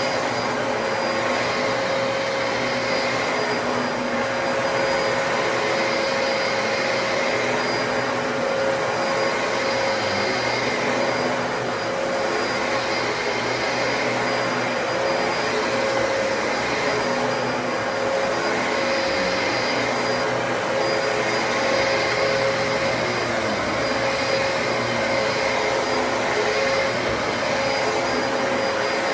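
Dyson DC33 upright vacuum cleaner running steadily: a constant rushing airflow with a steady motor whine that holds one pitch throughout.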